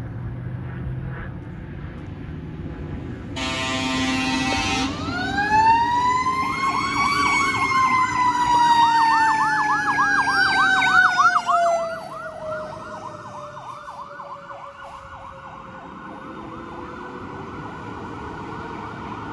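Fire engine responding: a short horn blast, then a Federal Q mechanical siren winding up to a high wail and slowly coasting down in pitch. For several seconds in the middle an electronic yelp siren sounds over it, warbling fast and cutting off while the Q keeps winding down.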